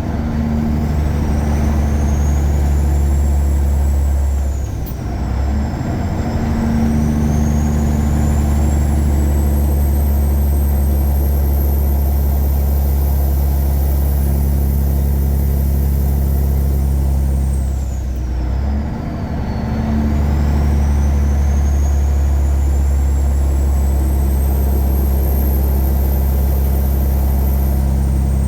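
Tuned Caterpillar 3406E inline-six diesel of a Freightliner Classic truck pulling steadily under load, with a high whine that rises and falls with the engine. Twice, about 5 seconds and 19 seconds in, the engine sound drops off briefly and then comes back.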